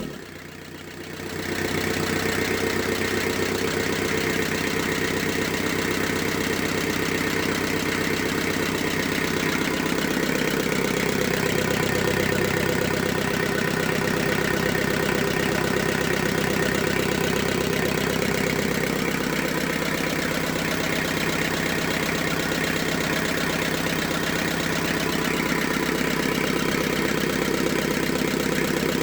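Kubota V1505 four-cylinder diesel engine running at a steady speed. Its level dips just as it comes down from revving, then about a second and a half in it settles into an even, unchanging run.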